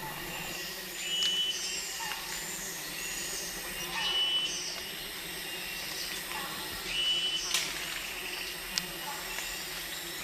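Tropical rainforest ambience: a steady high insect hiss, with short, high calls repeating every second or two and a single sharp tick near the end.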